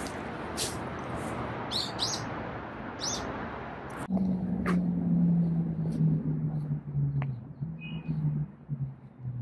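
Small birds chirping a few times over a steady rushing noise. About four seconds in, the noise drops away and a low hum takes over, stepping down in pitch in short held steps and breaking up near the end.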